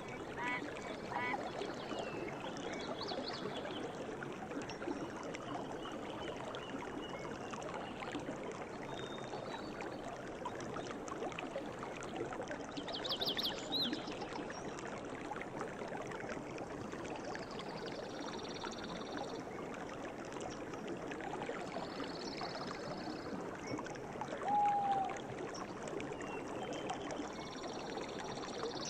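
Steady rush of a flowing river, with small birds chirping and trilling now and then above the water. A few short repeated calls sound in the first second, and a single short call that drops in pitch comes about 25 seconds in.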